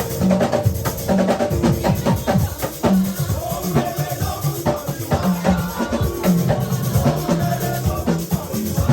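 Instrumental band music: a drum kit keeps a steady beat over held low notes, with no singing.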